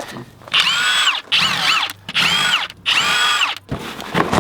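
Power drill run in four short bursts, its motor whining up to speed and winding down each time.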